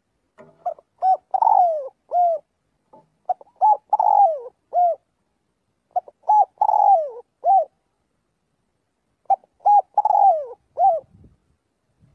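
Spotted dove (cu gáy) cooing its song four times. Each phrase is a few short coos, then one longer coo that falls in pitch, then a final short coo.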